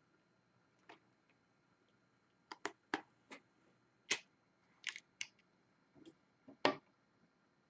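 Irregular sharp clicks and taps of small plastic diamond painting parts, the drills and applicator pen, about nine in all and bunched in the middle stretch.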